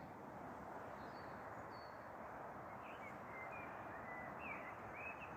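Small birds chirping faintly with short, high chirps that become more frequent after about three seconds, over a steady outdoor background hiss.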